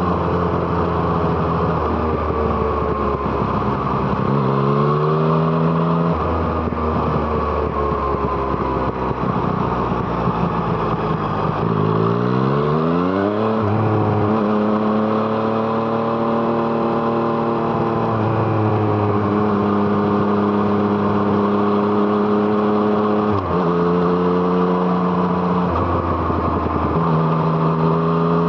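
Yamaha MT-09's three-cylinder engine through an Arrow Thunder exhaust while riding, mostly at a steady throttle. About halfway through the revs climb steeply in one pull. Late on, the engine note drops and rises abruptly a few times.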